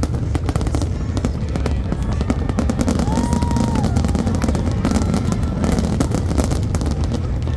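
Fireworks bursting and crackling in rapid, dense succession over a continuous low rumble, with a short steady high tone about three seconds in.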